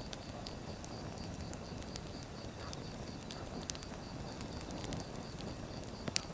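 Firewood burning and crackling: a steady low rumble of flames with scattered sharp pops, the loudest one near the end.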